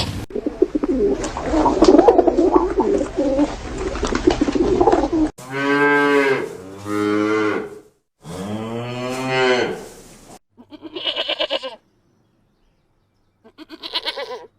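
Cattle mooing: two long moos that rise and fall in pitch, following a few seconds of mixed, noisy animal sound. Near the end come two short, quavering bleats, separated by silence.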